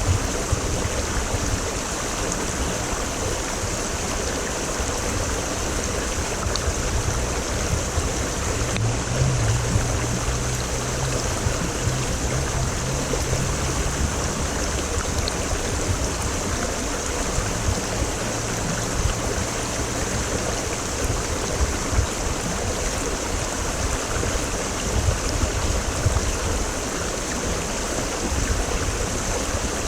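Mountain creek water running steadily over rocks, a continuous even rush.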